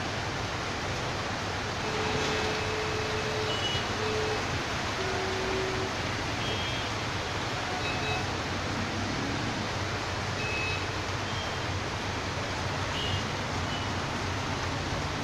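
Steady rain falling, an even hiss, with a few faint short tones here and there.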